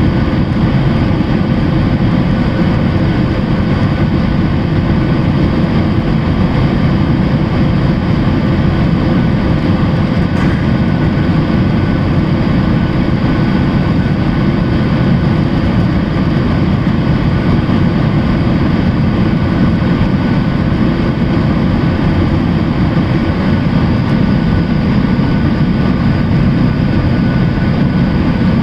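Boeing 737-800's CFM56 jet engines and airflow, a steady loud roar with a faint steady whine above it and no change in pitch or level.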